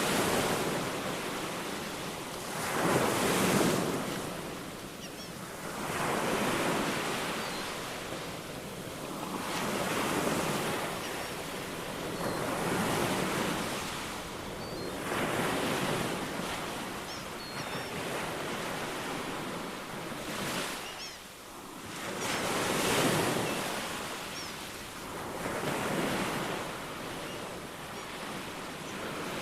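Ocean waves breaking and washing on a shore, surging and receding roughly every three seconds, with a few faint high bird chirps.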